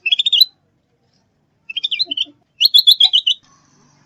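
A songbird singing three short phrases of quick, high chirping notes, the last and loudest a fast run of about ten notes a second.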